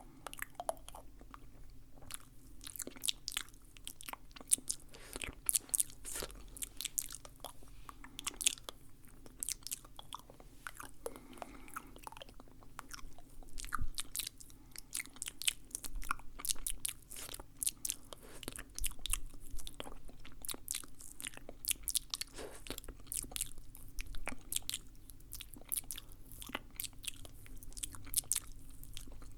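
Close-miked ASMR mouth sounds: wet clicks and smacks of tongue and lips, dense and irregular.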